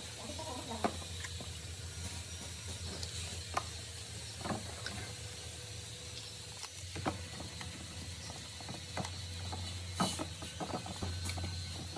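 Scattered sharp metallic clicks and taps of hand tools and engine parts being handled, over a steady low hum.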